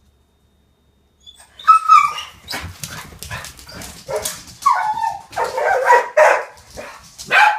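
Dogs barking, yipping and whining in a dense run of calls that bend up and down in pitch, starting a little over a second in.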